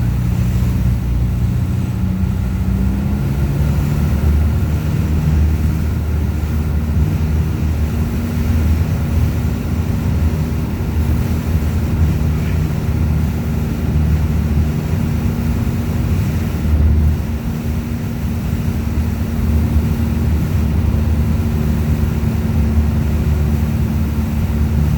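An engine running steadily with a low hum, its pitch stepping up slightly a couple of seconds in.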